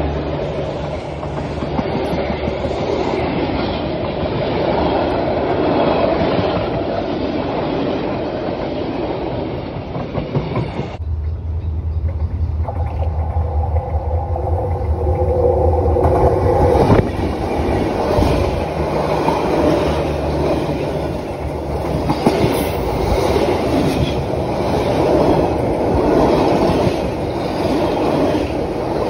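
Passenger train carriages rolling past at close range, their wheels clattering over the rails without a break. The sound changes abruptly about eleven seconds in, as a train runs along the track right beside the ground-level camera, its undercarriage passing close by near the end.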